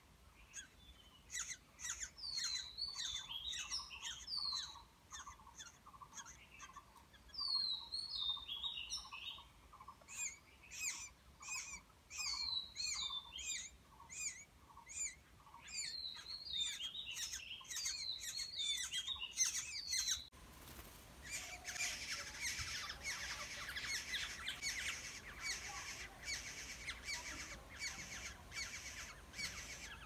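Birds chirping: short high chirps and repeated high calls that slide downward, over a run of evenly spaced lower notes. About two-thirds of the way through, the sound changes abruptly to a dense, steady high hiss with rapid chirps in it.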